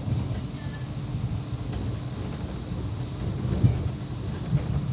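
Electric passenger train running along the track, heard from inside the carriage: a steady low rumble with two heavier thumps, about three and a half seconds in and near the end.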